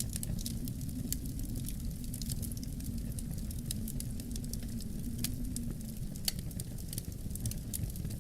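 Wood fire crackling in a fireplace: irregular sharp pops and snaps, several a second, over a steady low rumble of wind.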